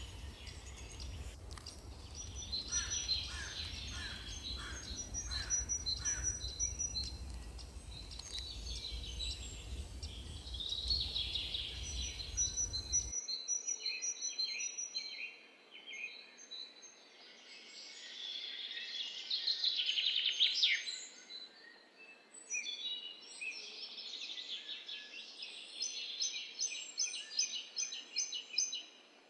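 Several small songbirds singing, with rapid chirps and trills overlapping. A low background rumble cuts off suddenly about halfway through.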